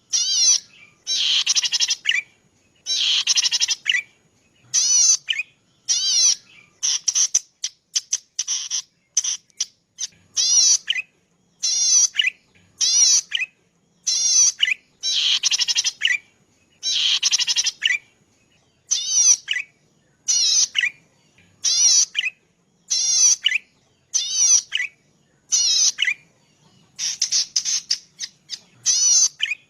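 Cici padi, a small rice-field warbler, singing a long series of buzzy, fast-warbling phrases, about one a second with short gaps between them.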